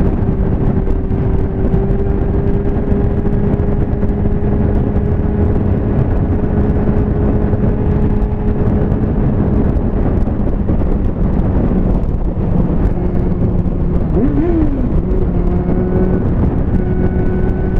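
Liter-bike motorcycle engine running at a steady cruise under heavy wind rush. About fourteen seconds in, the engine note briefly rises and falls.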